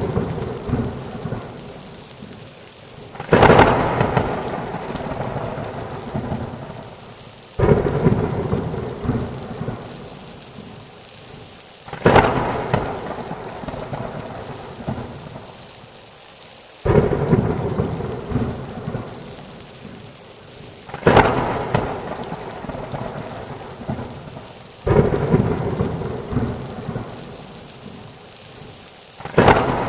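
Thunderstorm: seven sharp thunder claps, roughly every four seconds, each fading into a rumble, over steady rain.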